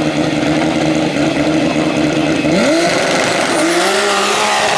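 Turbocharged BMW M5 straight-six in an E30 drag car held at steady revs, then rising sharply in pitch about two and a half seconds in as it pulls away and climbs through the revs.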